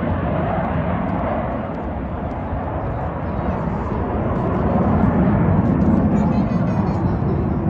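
Loud aircraft engine noise from a plane flying an airshow display. It eases slightly a couple of seconds in, then swells again towards the end.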